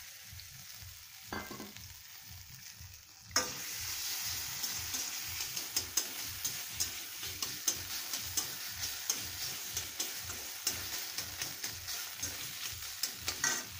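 Crumbled paneer frying in hot mustard oil in a kadai, sizzling, while a metal slotted spatula stirs it, scraping and clicking against the pan many times. The sizzle gets suddenly louder about three seconds in.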